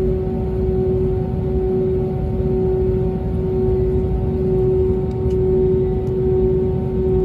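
Steady drone inside the cabin of an Airbus A320neo standing at the gate: a constant low rumble with a strong, unchanging mid-pitched hum on top.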